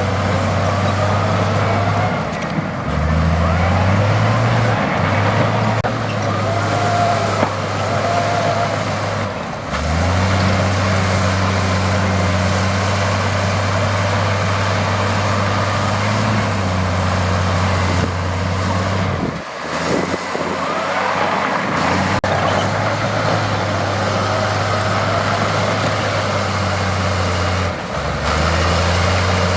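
Heavy earthmoving machine's diesel engine working under load. It runs with a steady low drone, the pitch shifting a few times as the throttle changes, and it eases off briefly about two-thirds of the way through. Faint squeaks can be heard over it.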